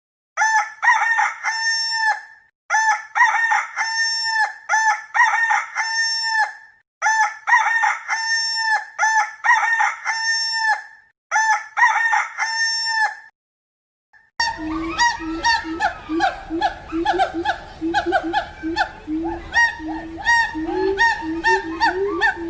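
A rooster crowing, four crows in a row with short pauses between them. About fourteen seconds in, a different animal sound takes over: a busy run of calls with fast clicking.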